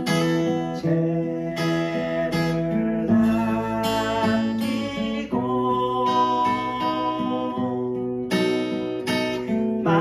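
Acoustic guitar playing, plucked and strummed chords in a steady rhythm, with the chord changing a few times.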